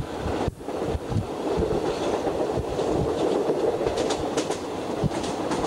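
Passenger train running at speed, heard from inside a carriage: a steady rumble of wheels on the rails with irregular clacks and knocks, and a few light rattles. The sound drops out sharply for a moment about half a second in.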